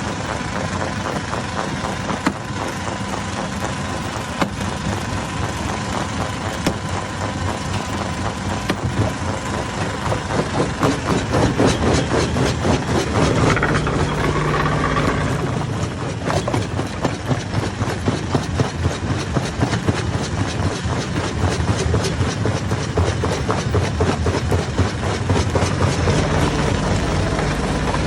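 Hammer stone crusher running under load, its engine droning beneath a dense, rapid clatter of rocks being smashed. The clatter grows louder and busier about ten seconds in.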